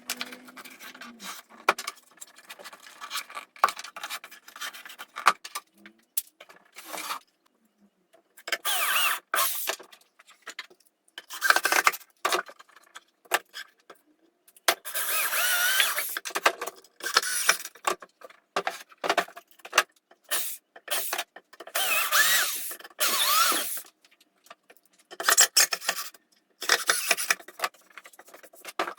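Wood being worked by hand: irregular scraping and rubbing strokes, each lasting a second or two, with short knocks between them.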